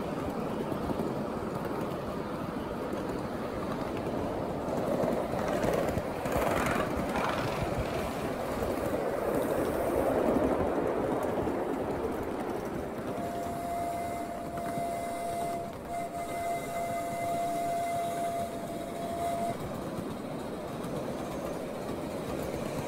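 Riding aboard a 7.5-inch gauge miniature railway train: the cars' wheels rumble and clatter steadily on the track. About halfway through, a steady high tone comes in and holds for about six seconds, with a short break.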